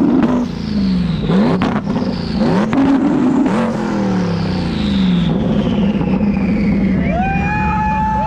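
A car engine revved hard over and over in a rev competition, its pitch climbing and dropping in quick sweeps, then held at a steadier note while a high whine falls away. Near the end a few steady pitched tones come in over it.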